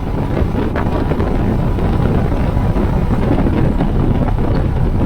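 Wind buffeting an action camera's microphone during a ride on a Royal Enfield Himalayan motorcycle, with the bike and road noise running underneath as a steady low rumble.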